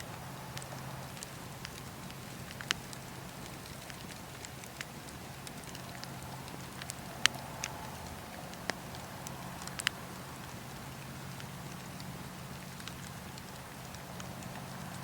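Campfire burning: a steady low rush with scattered sharp crackles and pops from the burning wood, the loudest pop about seven seconds in.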